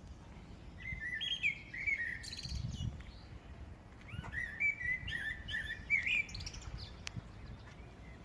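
Common blackbird singing: two phrases of fluting, gliding notes mixed with higher twittering.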